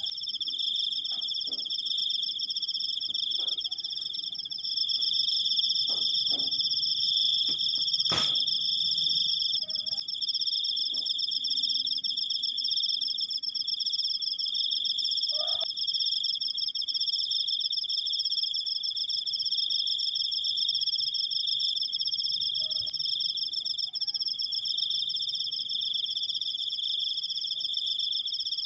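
Crickets singing a long, unbroken high trill at two steady pitches, with one sharp click about eight seconds in.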